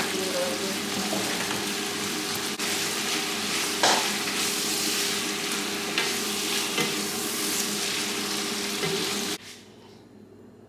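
Food sizzling in a frying pan while it is stirred, with a few knocks of the utensil against the pan. The sizzling cuts off suddenly near the end.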